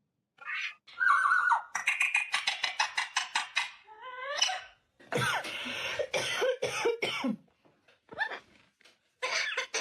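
Parrot making harsh, cough-like calls in several bursts, with a quick run of short sharp notes and some sliding squawks.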